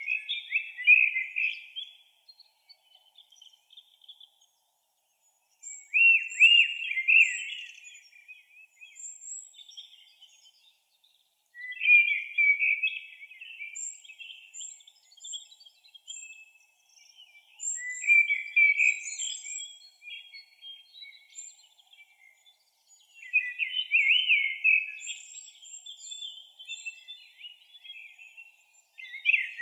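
A songbird singing, repeating a short warbled phrase about every six seconds, with thin high notes between the phrases.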